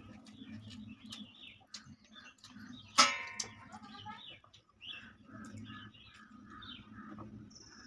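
Birds chirping and calling, with one loud, harsh call lasting about half a second about three seconds in.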